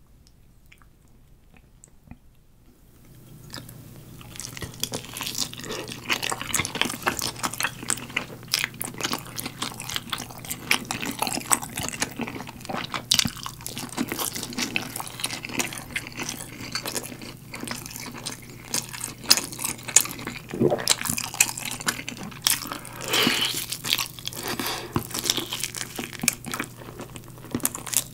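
Close-miked eating sounds: chewing, lip smacking and biting of galbi-sauce-glazed grilled chicken drumstick and rice, starting about three seconds in after a quiet start.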